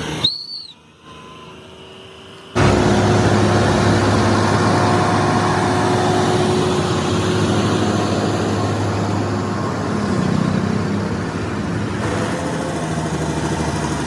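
Heavy vehicle engine running steadily with a constant low drone. It sets in suddenly about two and a half seconds in, after a short click and a quieter stretch.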